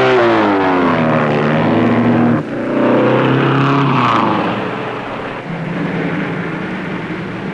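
Traffic: motor vehicle engines passing one after another. The first one's pitch falls as it goes by and cuts off, a second swells and falls, and a steadier engine hum runs near the end.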